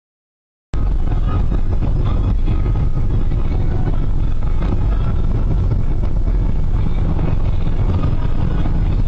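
Steady loud vehicle rumble, engine and road noise with no distinct events, starting abruptly just under a second in after silence.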